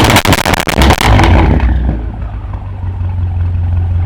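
Tuned car's exhaust crackling and popping rapidly as a rev falls away, then the engine settles to a steady idle about two seconds in.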